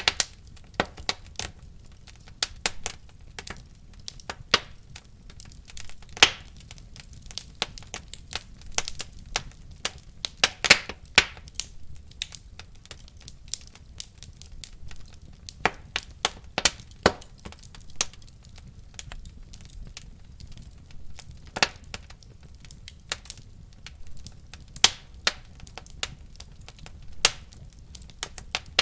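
Wood fire in a fireplace crackling, with frequent irregular pops and snaps over a low steady rumble of the flames.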